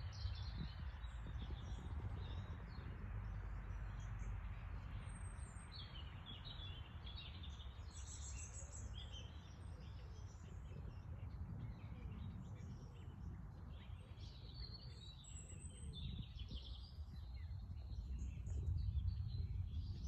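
Small birds chirping and singing, with many short high calls scattered throughout, over a steady low rumble.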